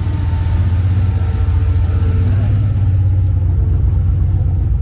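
A car engine idling with a loud, steady low rumble. Some faint higher tones above it fade out about three seconds in.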